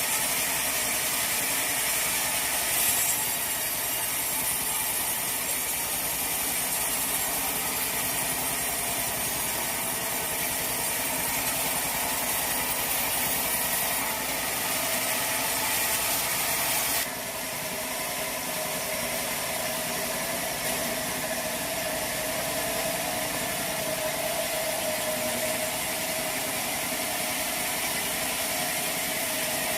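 Sawmill machinery running steadily, with a faint steady tone. About 17 seconds in the sound changes abruptly and drops a little in loudness.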